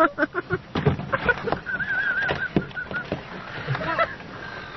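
Seagulls squawking and calling as they squabble over food, several short overlapping calls with sharp clicks between them, and one wavering call held for about a second near the middle.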